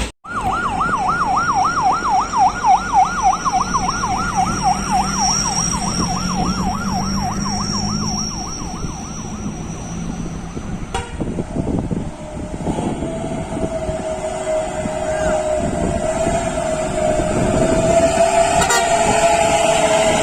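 An electronic siren on a truck sounding a fast yelp, about four rising-and-falling sweeps a second, for roughly ten seconds before it cuts off. After that a long steady horn-like tone sounds over vehicle and road noise.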